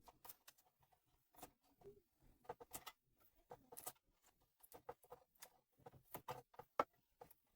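Faint, scattered clicks and taps of hand tools and small metal parts being handled during work on a toaster's wiring and cable terminal.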